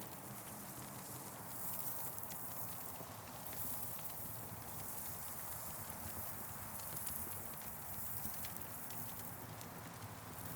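Campfire crackling: irregular small pops and snaps over a steady hiss that swells and fades every few seconds.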